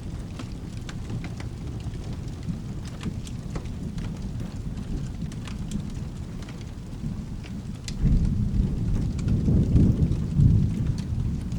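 Steady rain with a low, continuous rumble of thunder and scattered sharp drip-like ticks. About two-thirds of the way through, a louder roll of thunder builds and rumbles on to the end.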